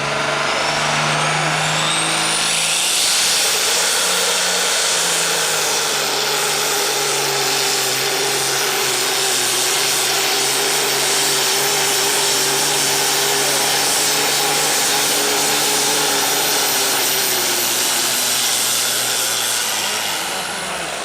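Turbocharged diesel engine of a hot stock pulling tractor running hard under full load down the track. A high turbo whine climbs over the first few seconds, holds steady, and falls away near the end as the engine comes off.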